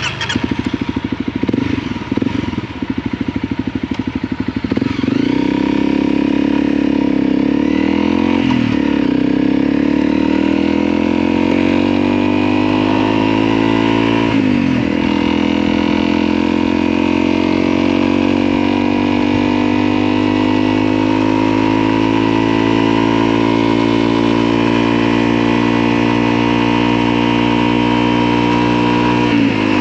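Motorcycle engine pulling away and accelerating. The pitch climbs with the revs, drops sharply at gear changes about 8 and 14 seconds in, then rises slowly and steadily.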